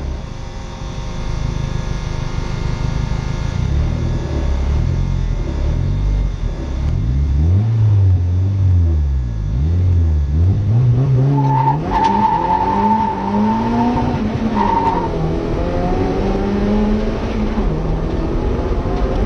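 Turbocharged drift car engine heard from inside the cabin, revving up and down repeatedly as the car accelerates. From about twelve seconds in, a tyre squeal lasting around three seconds is heard over the engine.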